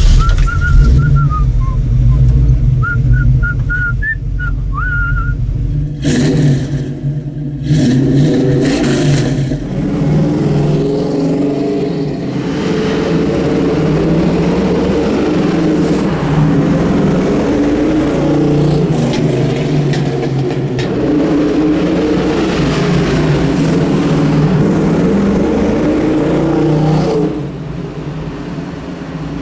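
1968 AMC AMX's 390 V8 running through Doug Thorley headers and VX mufflers. The exhaust note rises and falls through the middle as the engine is revved, then drops back near the end. The owner thinks a header still has a leak.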